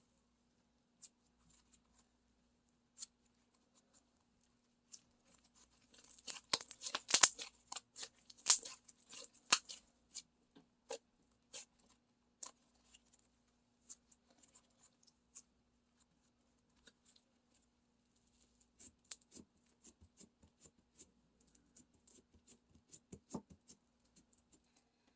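Black slime mixed with foam beads being squished and worked by hand, giving sharp crackling and popping clicks. The clicks are scattered, with a dense run of crackles about six to ten seconds in and another looser run near the end.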